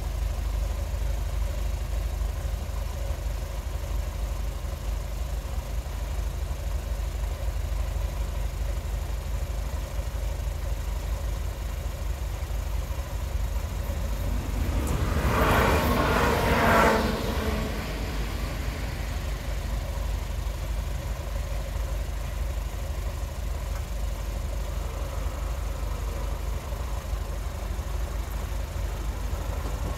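Car engines idling steadily in a queue at a closed railway level crossing. About halfway through, a train passes the crossing: a louder rush that swells for a few seconds and then drops away quickly.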